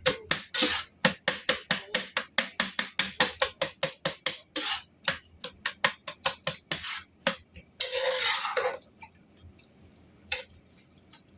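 A cooking utensil repeatedly knocking and scraping against a skillet as ground beef and sausage are broken up and stirred, about three or four strikes a second, with one longer scrape just before it stops near the end; a few stray taps follow.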